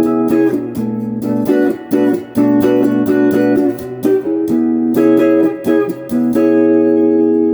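Donner DST-124 Les Paul-style electric guitar with stock pickups, played clean on the neck pickup through a Crate GX15R amp. Chords are picked and strummed in a steady run, and a chord is struck near the end and left ringing.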